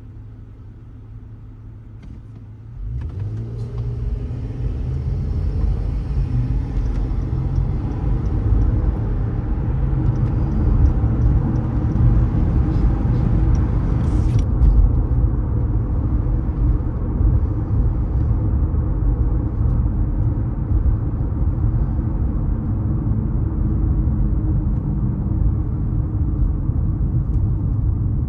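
Car engine idling with a steady low hum, then the car pulls away about three seconds in, and a loud low engine and road rumble builds and runs on steadily. A higher hiss over the rumble cuts off suddenly about halfway through.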